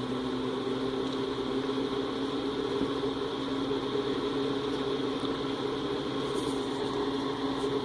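Vintage Airflow Everhot electric heater's four-bladed fan running steadily on the fan-only setting: a steady motor hum under the rush of air.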